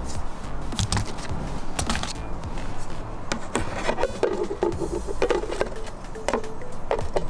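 Irregular clicking and clattering from a tablet friability tester, over background music.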